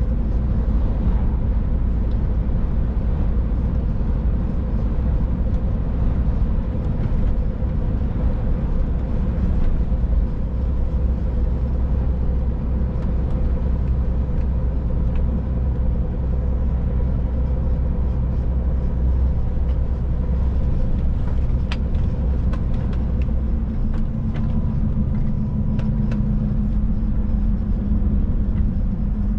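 Scania Next Generation truck driving on the road, heard from the cab: a steady low rumble of engine and tyres with a faint steady engine hum. The engine note shifts slightly about 24 seconds in.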